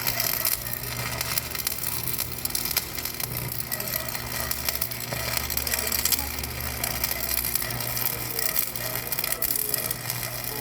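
Continuous crackling and crunching, as of wood being crushed or splintered, over a steady low machine hum.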